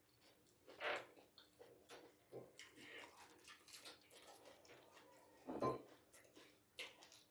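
A person eating bone soup with ugali: quiet chewing and mouth noises, with a few short louder sounds about a second in and near the end.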